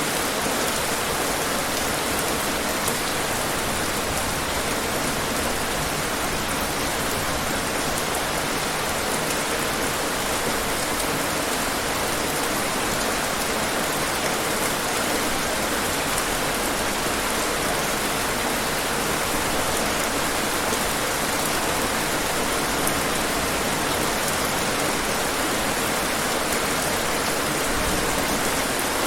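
Steady rainfall, an even hiss of rain falling on hard surfaces with scattered drop ticks, unchanging throughout.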